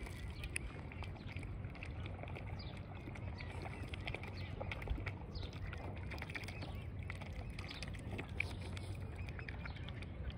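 Birds chirping and peeping in short, high calls scattered throughout, some sliding down in pitch, over a steady low rumble.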